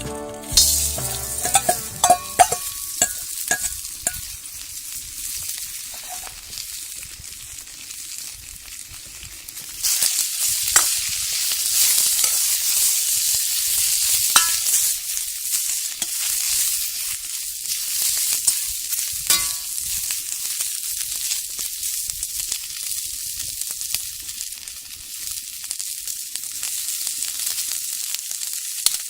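Food sizzling and frying in hot oil in a Beijing wok over a rocket stove fire, a steady hiss that grows louder about ten seconds in. A few sharp taps come in the first few seconds.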